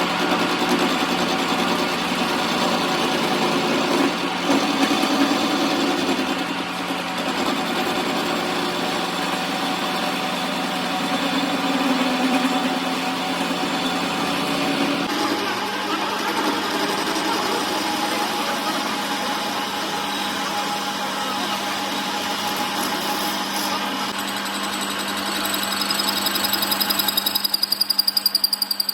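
A machine running steadily with a constant hum. Its sound changes about halfway through and grows louder, with a fast pulsing, near the end.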